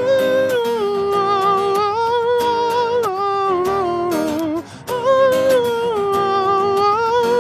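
Music: a wordless sung melody of long held notes with slight vibrato. The phrase is sung twice, with a short break about halfway through.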